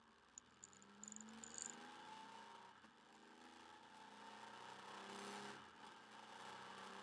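Motorcycle engine running on the move, faint, its pitch rising for a couple of seconds about a second in as it accelerates. A few sharp ticks and rattles come in the first two seconds.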